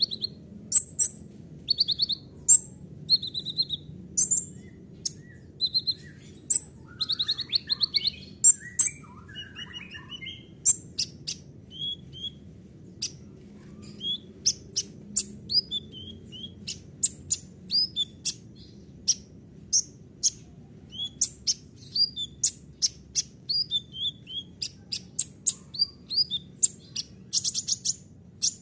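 Kolibri ninja sunbird singing a fast, varied song of sharp high chirps, short buzzy trills and quick sweeping notes, packed closely together, over a faint steady low hum.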